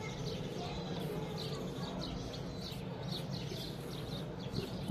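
Birds chirping in the background: many short, high chirps over a steady low hum.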